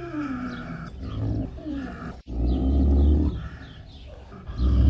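Leopard calling: low roars repeated several times, with a short break just after two seconds in. Faint bird chirps run behind.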